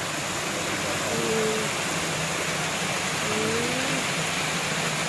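Small park waterfall: water falling and splashing steadily, a continuous even rush. Faint voices come through briefly about a second in and again near three and a half seconds.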